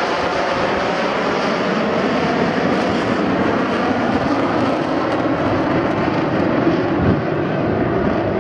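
Jet engine noise from the Frecce Tricolori's Aermacchi MB-339 jet trainers flying overhead, a loud, steady rushing noise that swells slightly about seven seconds in.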